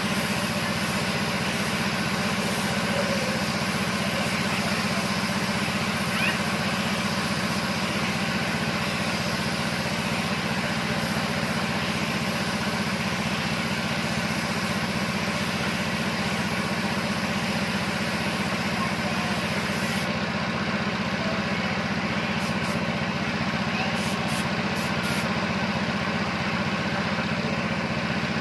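A motor running steadily, with a low hum and a hiss over it. The high part of the hiss drops away about two-thirds of the way through, and a few faint clicks follow.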